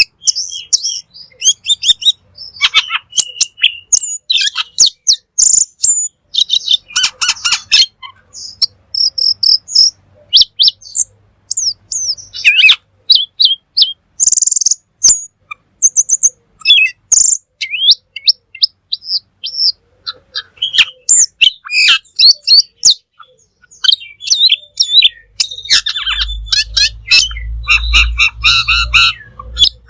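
Cucak keling songbird singing at full tilt: a rapid, varied, high-pitched run of chirps, whistles and trills with only brief pauses. A low hum joins near the end.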